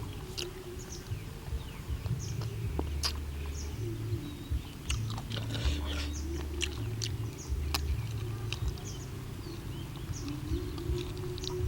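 Eating sounds: chewing with scattered small clicks, over a low uneven hum, with birds chirping now and then in the background.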